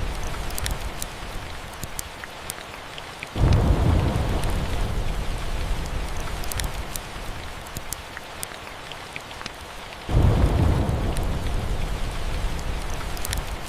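Steady rain with two low thunder rumbles, one about three seconds in and one about ten seconds in, each starting suddenly and fading slowly. Scattered sharp crackles from a log fire sound over the rain.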